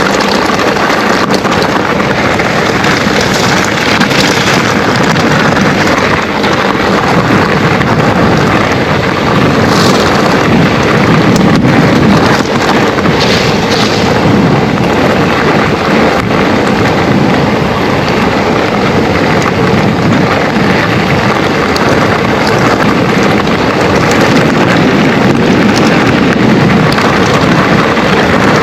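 Loud, steady wind rumble on an action camera's microphone, mixed with tyre noise from an electric mountain bike descending a loose trail.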